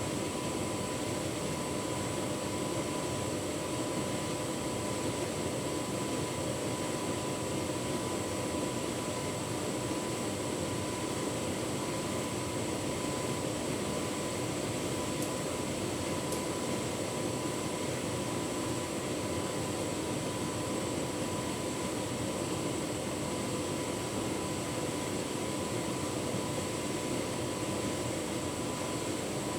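Tumble dryer running on a cottons programme with a full load of bedding: a steady whir of the drum and fan, with a constant hum and a faint high whine.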